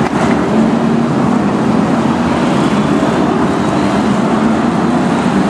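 BriSCA F1 stock cars' V8 engines running hard in a race, several cars at once, giving a loud, steady wall of engine noise.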